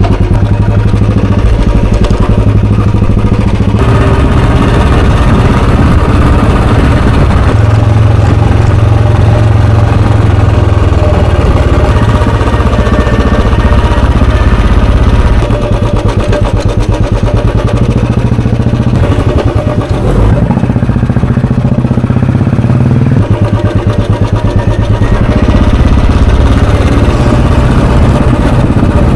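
Royal Enfield Bullet 350's single-cylinder, four-stroke, air-cooled 346 cc engine and exhaust running on the move, loud and steady, its note shifting several times as engine speed changes.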